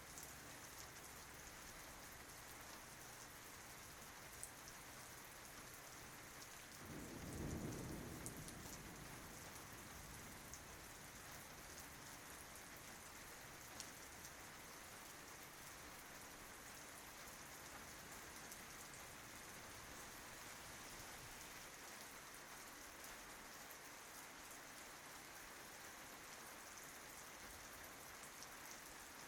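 Steady rain pattering on tree leaves, with a brief low rumble lasting about two seconds about seven seconds in.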